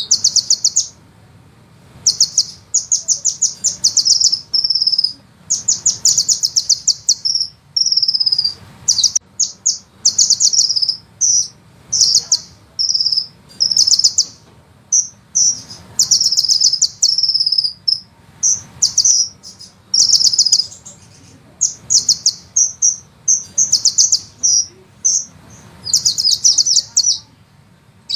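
Sunbird song: very rapid, high-pitched trills of ticking notes ('ngeroll', rolling) alternating with short whistled phrases, one burst after another with brief pauses between.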